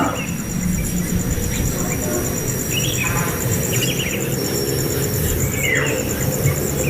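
A few short bird chirps and a falling call over a steady, rapidly pulsing high insect buzz, with a low background rumble.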